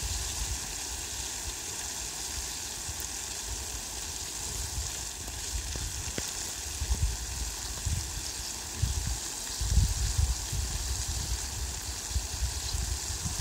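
Steady rain falling, a constant hiss, with irregular low rumbles coming and going from about seven seconds in, loudest around ten seconds.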